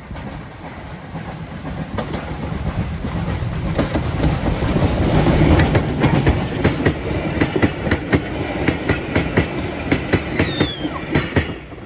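Heritage train passing close by. It rumbles up to its loudest about halfway through, then the carriage wheels clatter over the rail joints in a quick, even run of clicks.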